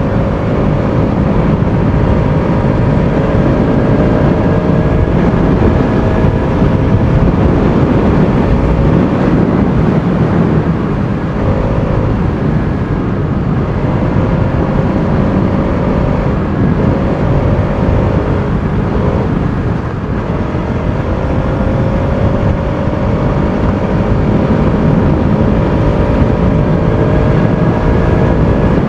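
Bajaj Pulsar RS200's single-cylinder engine under way at riding speed, its pitch climbing slowly as the bike pulls. It eases off briefly a few times, near the middle and about two-thirds in, before picking up again.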